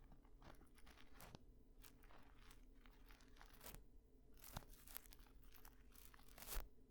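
Ear-cleaning tool scraping and rubbing in close-up, a quiet, irregular run of crackles and soft clicks, with a louder click near the end.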